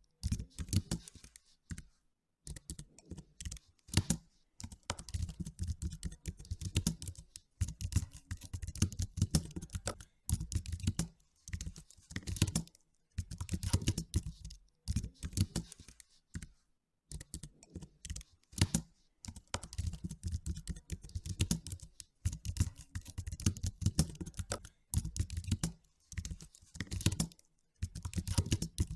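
Typing on a computer keyboard: rapid runs of key clicks in bursts of a second or two, with short pauses between them.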